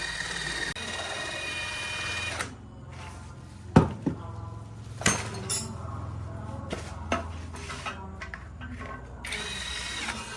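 Workshop tool sounds: a power tool runs, stops about two and a half seconds in, and starts again about nine seconds in. In between come several sharp metallic clinks and knocks over a low hum.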